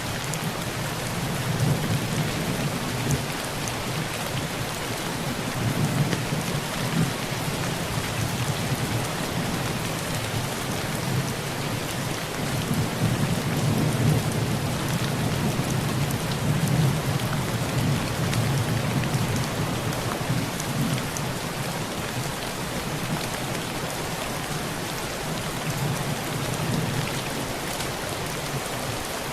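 Heavy rain falling steadily on a rusty tin roof, with low thunder rolling and swelling in long waves through much of it.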